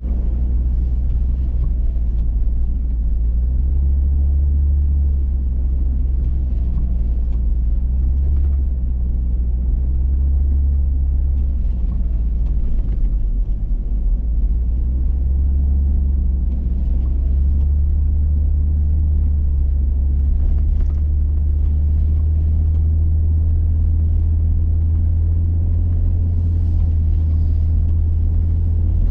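Hummer H3 driving: a steady, loud low engine-and-road rumble whose pitch shifts slightly a few times.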